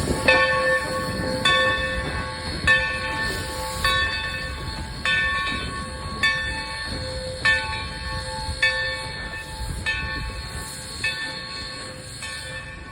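Locomotive bell ringing steadily, one stroke about every 1.2 seconds, each ring sustaining until the next, over a low rumble of the train, growing slightly fainter towards the end.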